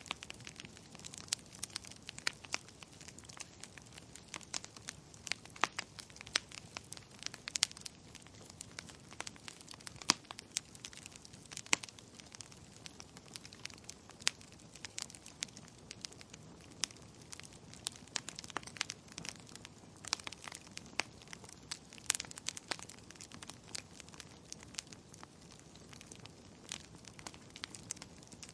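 Wood fire crackling in a fireplace: irregular sharp pops and snaps, several a second, over a soft low hiss of burning.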